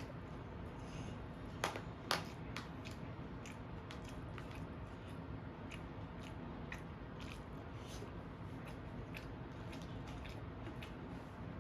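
A person chewing and biting food close to the microphone, with scattered small mouth clicks and two sharper clicks a little under two seconds in.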